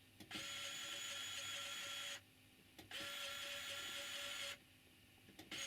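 Small electric motor in a Dapol semaphore signal whirring as the signal changes on its push button: two runs of about two seconds each with a short pause between, and a third run starting near the end.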